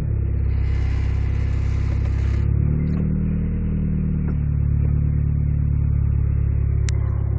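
Mitsubishi Eclipse RS's 420A four-cylinder engine idling steadily, its pitch stepping up a little about three seconds in.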